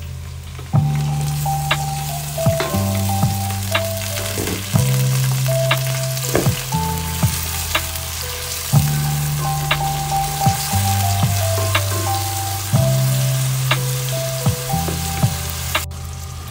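Onions and tomato paste sizzling in hot oil in a pot as they are stirred with a wooden spoon, under background music with a bass line that changes every couple of seconds.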